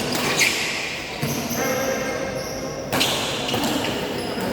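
Badminton rackets hitting a shuttlecock in a large, echoing sports hall: a few sharp hits, the loudest about half a second in and another about three seconds in, over players' voices.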